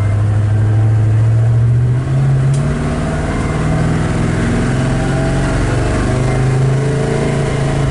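383 stroker small-block V8 with side pipes pulling away under power, its 4-speed automatic shifting up through second and third. About two seconds in the engine note dips and drops as the first shift comes.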